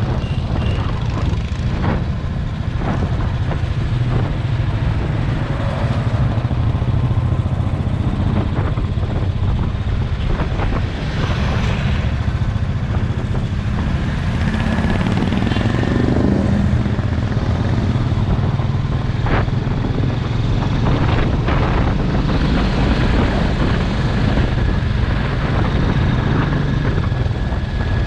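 Motorcycle engine running steadily under way, with a low, even drone and a few short knocks scattered through it.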